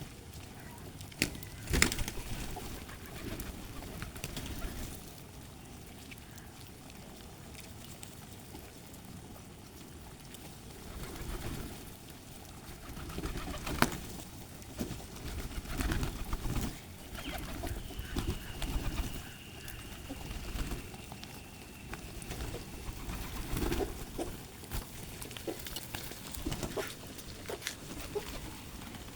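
Pigeons cooing again and again, with a few sharp knocks among them.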